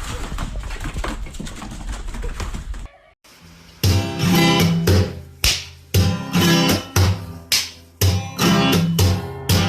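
A few seconds of steady rumbling noise, then a cut to strummed acoustic guitar music, with chords struck about twice a second.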